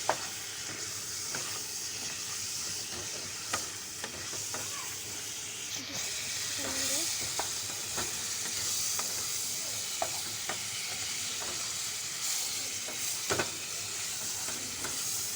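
Chicken frying in ghee with ginger-garlic paste, sizzling steadily as it is stirred, with scattered short clicks of a utensil against the pan.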